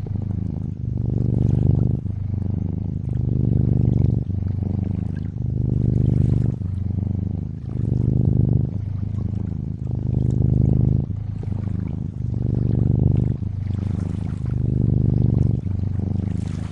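Domestic cat purring steadily close up, the low rumble swelling and easing with each breath about every second, over a soft trickle of lakeside water.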